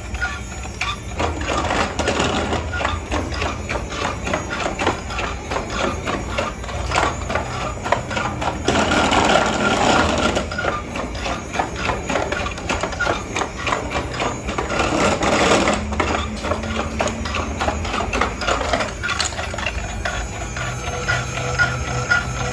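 A battery-powered toy's small electric motor and plastic gears running with a rapid, continuous clatter, swelling louder twice.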